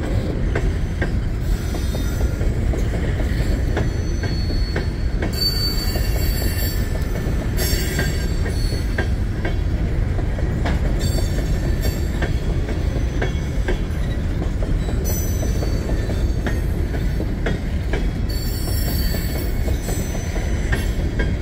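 Empty Union Pacific coal train's cars rolling past: a steady low rumble with scattered clicks of wheels over rail joints. High-pitched wheel squeal comes in about five seconds in, again around eighteen seconds, and near the end.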